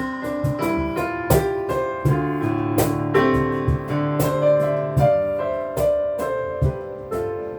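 Piano playing a slow passage of struck notes and chords, each note fading after it is struck.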